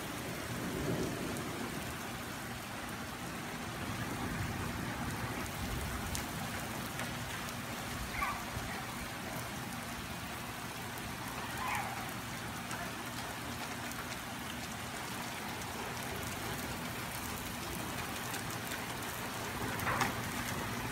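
Steady rain falling on a wet street and pavement, an even hiss.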